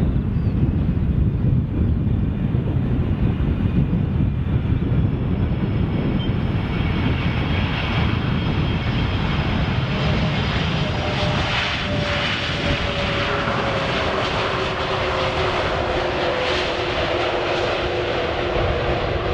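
General Electric CF6-80E1 turbofans of an Airbus A330-203 running at high power as the aircraft passes. A deep rumble gives way, about a third of the way in, to a brighter jet whine with tones that slowly drop in pitch.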